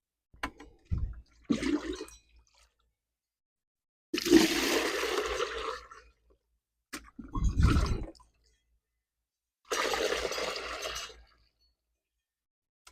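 Water being emptied out of a garden fountain: two splashing pours, each a rush lasting under two seconds, one about four seconds in and one near the end. Shorter low knocks between them, about a second in and midway, as the fountain or container is handled.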